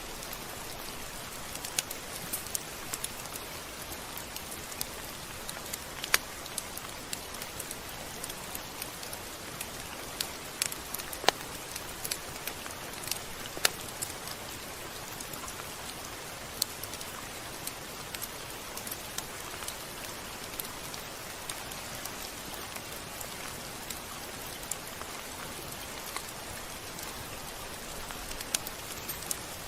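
Steady rain: an even hiss of falling rain with scattered sharp ticks of drops striking a surface.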